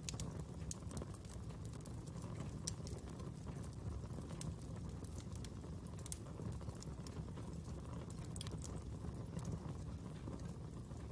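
Fire crackling: irregular sharp pops and snaps, a few a second, over a steady low rush of burning.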